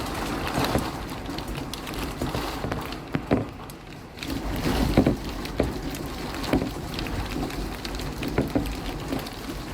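Steady rain falling, with irregular louder drops or drips striking a surface close by every second or so.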